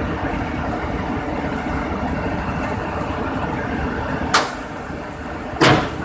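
Excavator engine running steadily, with two loud knocks about a second apart near the end, the second longer and heavier.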